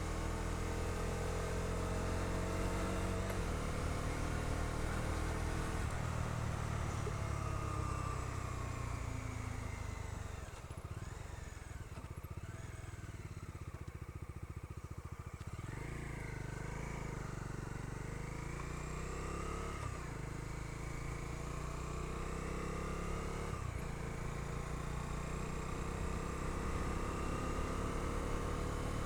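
Bajaj Dominar 250's single-cylinder engine running under way with a passenger aboard. The engine note drops and eases off about ten seconds in, then picks up again a few seconds later.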